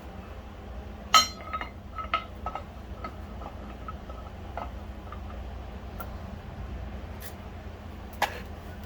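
Small metal parts clinking and tapping over a low steady hum. A sharp clink comes about a second in, then lighter taps with a faint ringing note for a couple of seconds, and another clink near the end.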